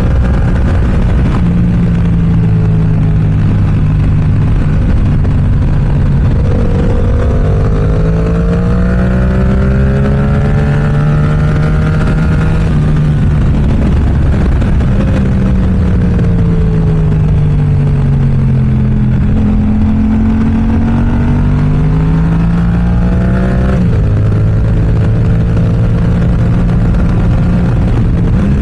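Yamaha YZF-R7's parallel-twin engine through an aftermarket M4 exhaust, under way, its revs climbing and falling several times with a sudden drop near the end. A steady rushing noise runs underneath.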